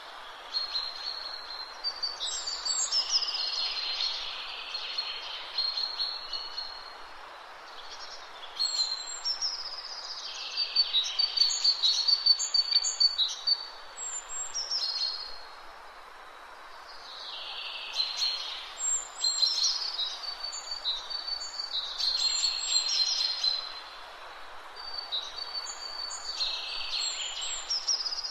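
Small birds chirping and trilling in repeated phrases of a few seconds, with short pauses between them, over a steady background hiss.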